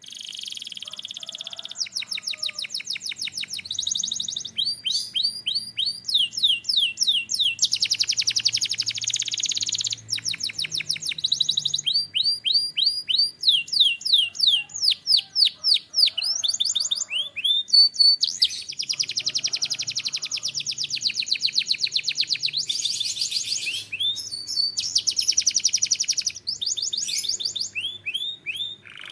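Domestic canary singing a continuous song: runs of fast repeated notes, rapid trills and quick sweeping whistles, each run giving way to a new one every second or two.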